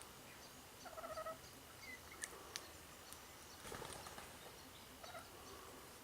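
Faint, soft calls of feeding birds, a few short chirps and chatter, with scattered sharp clicks and a brief rustle about two-thirds of the way through.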